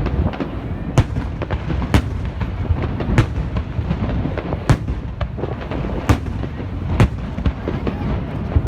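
Fireworks display: aerial shells bursting in a steady string of sharp bangs, about one loud bang a second, over a continuous rumble and crackle of smaller bursts.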